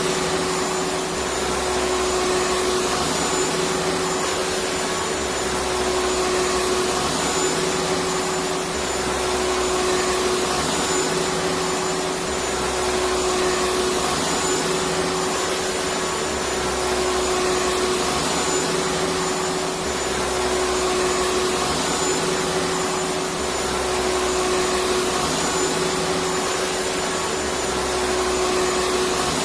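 Electric vacuum cleaner running steadily: an even rushing hiss with a constant hum, over a low pulse that repeats about every two seconds.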